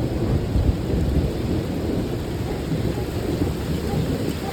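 Thunder rumbling over steady heavy rain, the rumble strongest in the first second or so and easing after.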